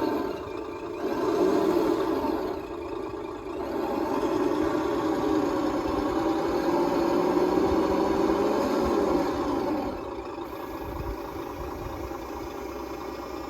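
Truck engine sound from the electronic sound module of an RC Bruder Mack Granite dump truck conversion, playing through its small speaker. It idles and rises with the throttle, and eases to a quieter idle about ten seconds in.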